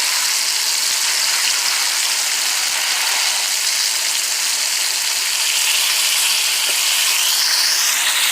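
Ribs frying in hot oil with a steady sizzling hiss, over a running kitchen exhaust fan. About seven seconds in, a brief rising whoosh joins the sizzle.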